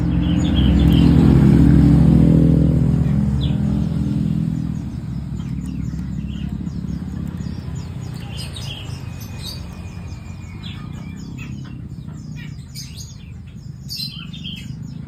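Small birds chirping now and then over a low steady hum, which swells loudest in the first few seconds and fades back by about four seconds in.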